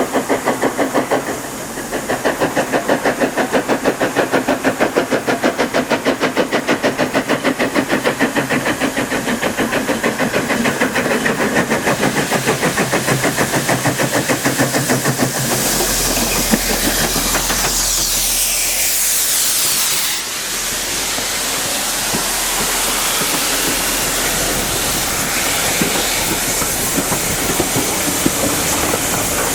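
Steam locomotive working a train, its exhaust beating in a fast, even rhythm. About halfway through, the engine passes with a hiss of steam, and then the coaches roll by, clicking over the rail joints.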